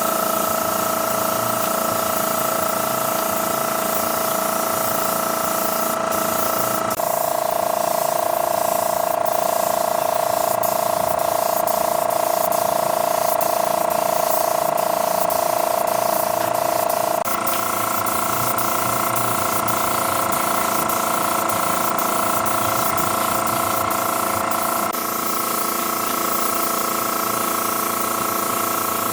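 Steady machine whine over a hiss. The pitch jumps abruptly to a new level about a third of the way in, again past halfway, and once more near the end.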